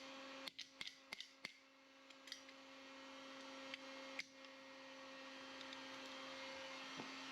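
Faint scattered clicks and light taps from working a knockout out of an electrical box, about eight in all, over a steady low hum.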